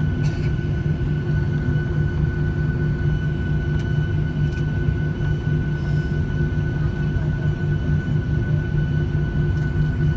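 Boeing 737-800 jet noise: a steady low hum with a constant high whine, holding at one pitch with no build-up of power.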